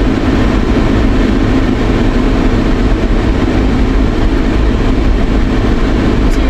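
Steady road and engine noise inside the cabin of a moving vehicle, a constant low rumble with no change in speed.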